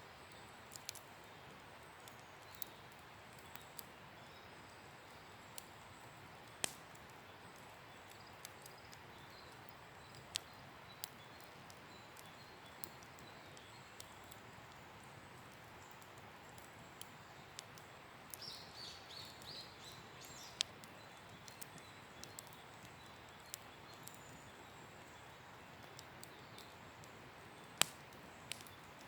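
Wood campfire burning with irregular sharp crackles and pops over a faint steady hiss. A bird chirps a short run of high notes about two-thirds of the way through.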